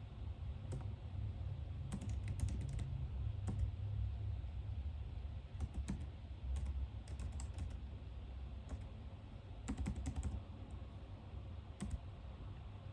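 Typing on a computer keyboard: irregular clusters of key clicks with short pauses between them, over a steady low hum.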